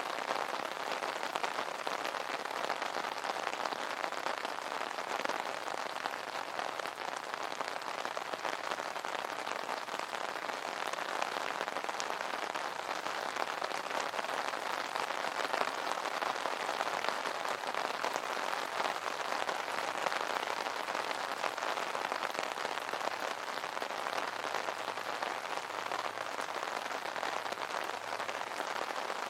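Steady rain pattering on an umbrella's fabric canopy, a dense even patter of many small drops.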